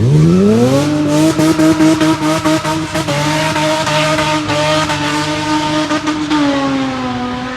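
Car engine revving up fast and held at high revs for several seconds, with a hissing noise over it, the pitch easing down a little near the end.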